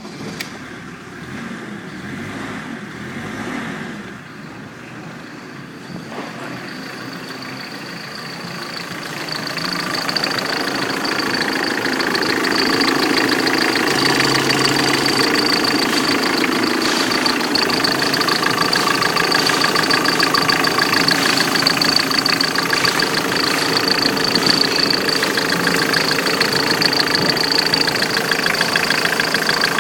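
BMW E36 turbo-diesel engine running, getting louder about ten seconds in and then holding steady, with a constant high whine over the engine sound.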